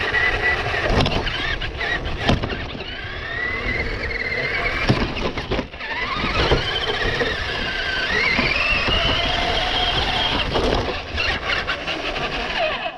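RC car's motor whining, its pitch rising and falling as the car speeds up and slows, over the rumble of the wheels on the ground, with several sharp knocks.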